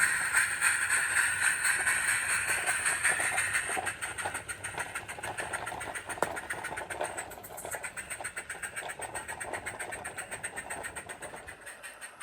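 Small live-steam garden-railway locomotive with a Summerlands Chuffer, giving a fast, even exhaust chuff over a steady hiss. It fades steadily, as if the loco is running away.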